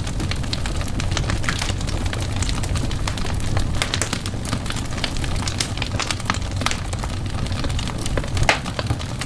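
Fire in a fireplace crackling, with frequent irregular sharp pops and snaps over a steady low rumble of burning. One louder pop comes near the end.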